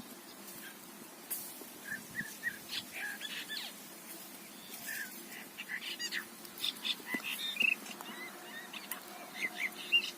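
Birds chirping: many short, scattered calls, busier in the second half.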